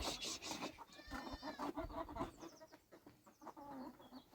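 Sheep or goats bleating: one clear bleat about a second in and a fainter, lower one near the end, with some rustling and knocking around them.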